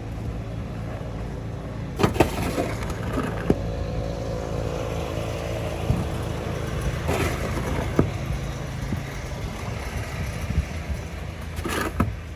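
Snow shovel scraping and knocking on the porch, a few strokes spread out: about two seconds in, about seven seconds in, and near the end. A steady low hum runs underneath.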